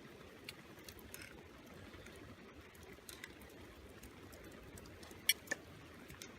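Rain dripping and pattering on a tarp over a steady low hiss, with scattered sharp ticks; the two loudest come close together a little after five seconds in.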